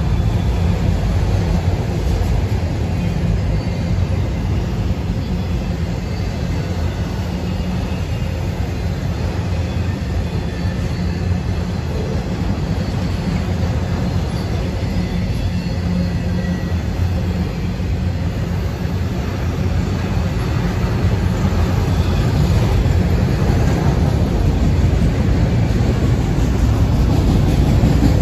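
Freight train of autorack cars rolling past: a steady low rumble of steel wheels on rail, with faint high squeals at times, growing a little louder near the end.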